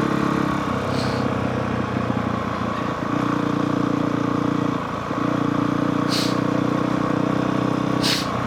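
Honda CRF450R single-cylinder four-stroke dirt bike engine running on a downhill ride, with the throttle easing off and coming back on a couple of times, as in engine braking. A few short hisses are heard about a second in, at six seconds and near the end.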